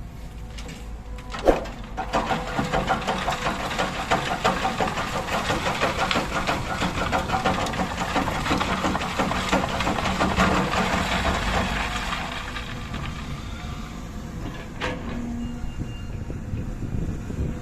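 Heavy diesel machinery engine working hard with a fast rattle for about ten seconds, then easing back. A sharp knock comes about a second and a half in and another near the end.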